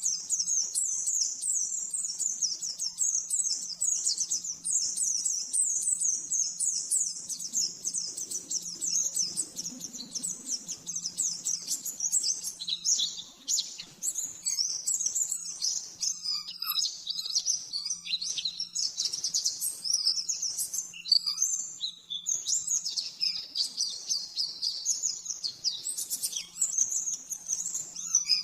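A white-eye (pleci) singing: a long, fast, unbroken run of high chirps in the rapid 'shooting' style, becoming more broken and varied about halfway through. A faint steady low hum lies beneath.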